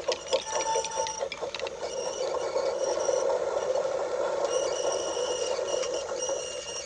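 Battery-powered Brio toy train running along wooden track: a steady rolling rumble with a thin motor whine, and quick clicks over about the first second and a half.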